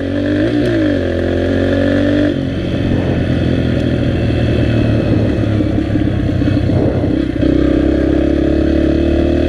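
Dirt bike engine running under way, revving up and easing off with changes of throttle: a rise in pitch about half a second in, a drop a couple of seconds in, and a rough stretch before it picks up again near the end.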